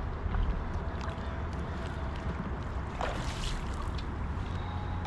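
Kayak on a river: steady water noise against the hull under a low rumble of wind on the microphone, with a brief louder swish about three seconds in.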